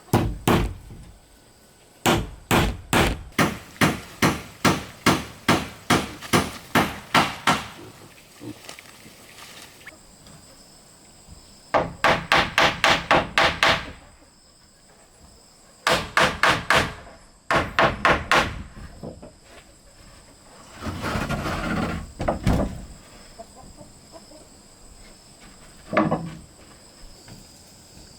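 Hammer striking wood in runs of rapid, evenly spaced blows, about three a second at first and faster later, then a short rough stretch and one last blow near the end.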